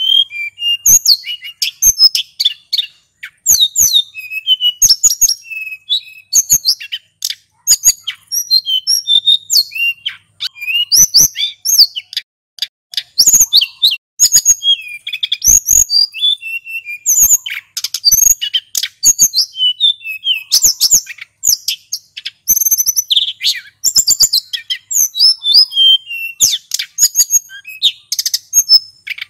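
Male sulingan gunung songbird singing a continuous, rapid run of varied high chirps, whistles and trills, one phrase tumbling into the next without pause.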